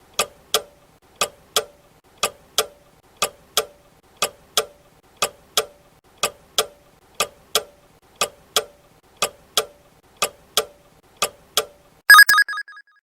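Quiz countdown-timer sound effect: a clock ticking tick-tock, one pair of ticks each second, twelve times. A short bright bell ring follows, signalling that the 12 seconds to answer are up.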